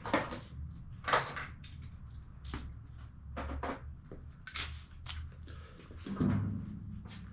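Scattered clicks, knocks and light clatter of tools and small parts being handled at a workbench, over a low steady hum.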